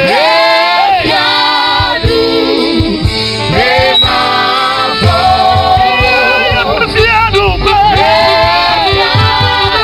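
Gospel worship song sung by a group of voices, male and female, over instrumental backing with a steady low bass.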